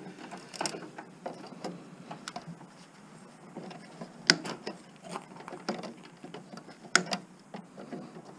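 Irregular clicks, taps and light clatter of plastic and metal parts being handled as a garage door opener's housing is taken apart, with two sharper knocks about four seconds and about seven seconds in.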